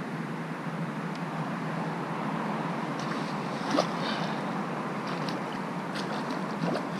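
Steady hiss of wind and rain, with a few faint clicks and one short, slightly louder sound just under four seconds in.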